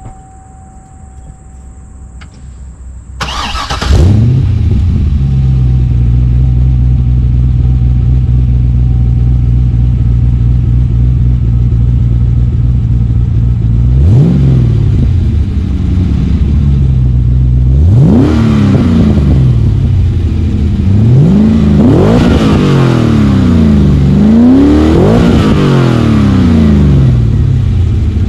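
2007 Cadillac CTS-V's V8 through an aftermarket exhaust with a MagnaFlow resonated X-pipe and Borla ProXS mufflers: the engine starts about three seconds in and idles steadily, then from about halfway on it is revved in several quick throttle blips, each rising and falling in pitch.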